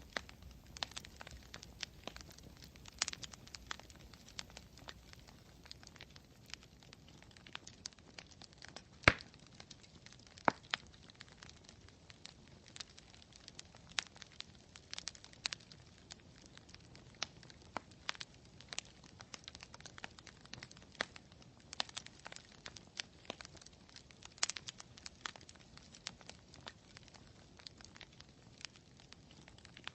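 Campfire wood crackling: irregular snaps and pops over a faint hiss, with one sharp, louder pop about nine seconds in and another a little after.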